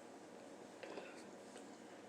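Near silence: room tone, with a couple of faint soft sounds about a second in.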